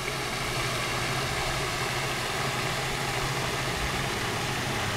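A steady low mechanical hum over an even background hiss.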